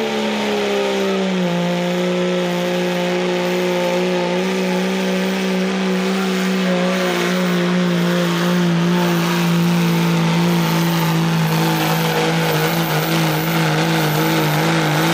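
Diesel pickup with a Cummins engine pulling a weight sled at full throttle. The engine holds one high, steady note that dips about a second and a half in and then sinks slowly as the sled loads it down, with a steady rush of noise over it.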